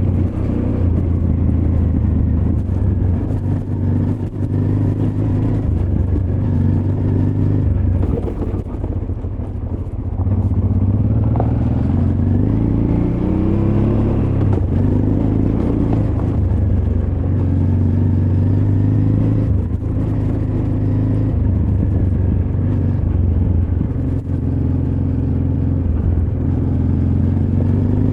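Honda Transalp XL600V's V-twin engine running under load, its revs rising and falling again and again as the throttle is worked, with a softer spell about eight to ten seconds in before the revs climb again.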